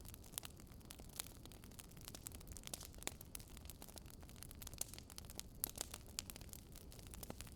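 Campfire crackling faintly: irregular sharp pops and snaps, a few each second, over a low steady rumble.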